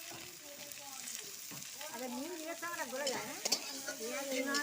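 Onions and freshly added, salted tomatoes sizzling in hot oil in a kadai as they are stirred with a spatula, with a few sharp clicks of the spatula against the pan.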